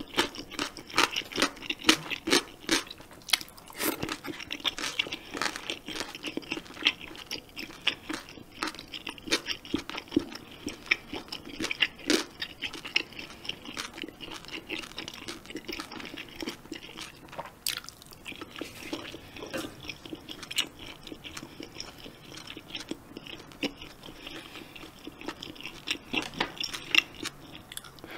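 Close-miked chewing of spicy jjamppong noodles and seafood: wet mouth smacks and clicks, densest in the first few seconds, then steady softer chewing.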